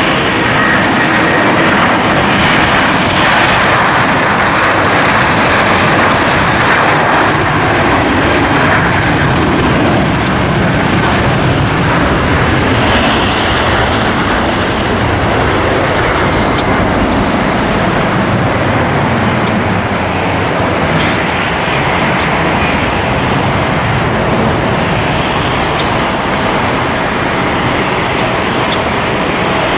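Steady noise of a jet airliner's engines, mixed with wind on the microphone.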